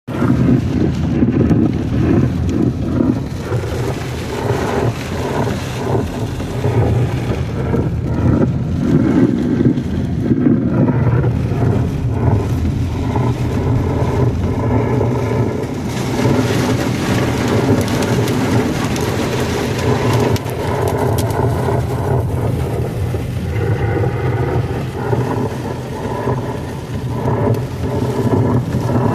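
Heavy hail coming down with rain: a dense, steady clatter and hiss of many small impacts, thickening about halfway through. Wind noise buffets the microphone underneath.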